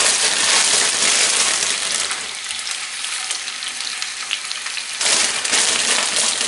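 Baby spinach leaves sizzling in hot olive oil in a frying pan: a steady crackling hiss that eases off a little about two seconds in and rises again sharply about five seconds in.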